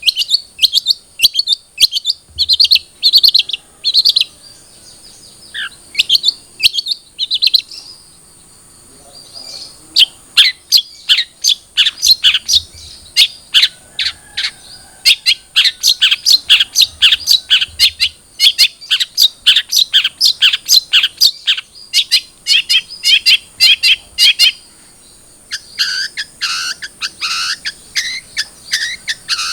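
Long-tailed shrike (cendet) singing: quick strings of sharp, downward-slurred chirps, several a second, broken by short pauses, with lower notes near the end.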